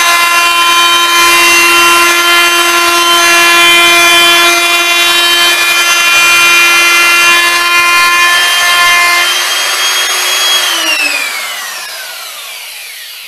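Handheld electric router cutting a round-over on the edge of a wooden board, its motor running with a steady high whine over the cutting noise. About nine seconds in the cutting stops, and shortly after the motor is switched off, its whine falling in pitch as the bit spins down.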